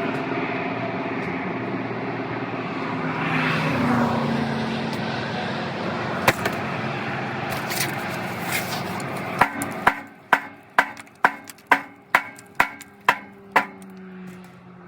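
A steady mechanical drone, then about ten sharp ringing blows of a hammer on metal, roughly two a second, typical of hammering a rusted exhaust pipe or clamp loose.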